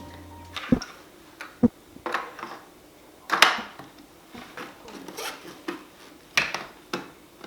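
Irregular clicks, knocks and clatter of the Dolce Gusto Piccolo capsule coffee machine's removable plastic parts, such as the capsule holder and water tank, being handled and set down. The loudest knock comes about three and a half seconds in.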